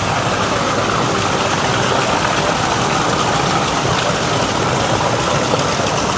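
Steady rushing of water from a garden water feature: an even, unbroken hiss.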